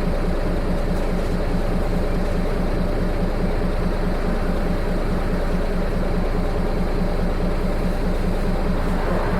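Diesel engine of a Nissan Diesel KK-RM252GSN route bus running steadily with an evenly pulsing low throb. The engine sound is abnormal, which marks this bus as a noisy-engine vehicle.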